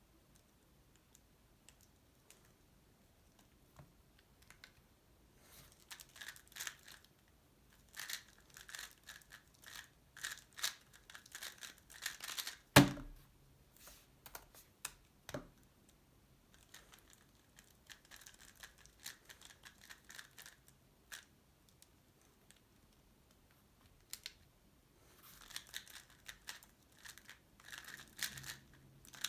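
Tornado V3 Pioneer 3x3 speedcube being turned rapidly, in bursts of fast clicking and clacking as its layers snap round, with a single sharp knock about halfway through.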